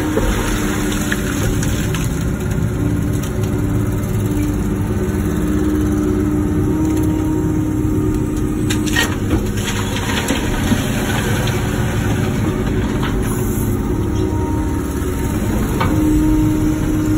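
Wacker Neuson ET145 excavator's diesel engine running steadily while the machine digs, with a constant hum that swells in places and a few faint knocks partway through.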